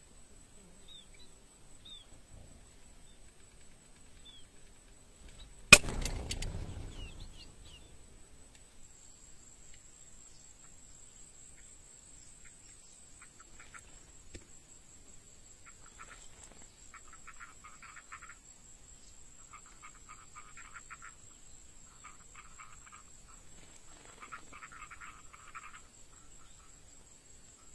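A few faint bird chirps, then one sharp, loud snap about six seconds in that dies away quickly: a bird trap springing shut. Later come repeated bursts of rapid trilling calls, over a faint steady high whine.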